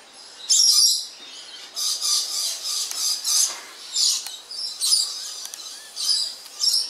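Small birds chirping in short, repeated high bursts, with a few faint clicks from the camera's dials and buttons being handled.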